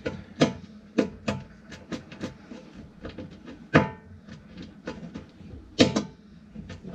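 Irregular clicks and knocks as a gas bulkhead fitting and its pipework are handled and pushed into place, with two louder knocks a little under four and about six seconds in.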